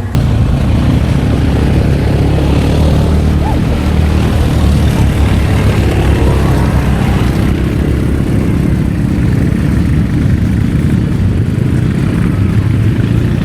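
Quad bike engine running steadily while riding, a loud, even low drone with a noisy wash above it.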